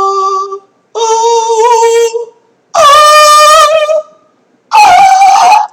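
A voice singing a series of wordless, high-pitched sustained notes: four held notes of about a second each with short gaps between them, each pitched higher than the one before, the last two the loudest.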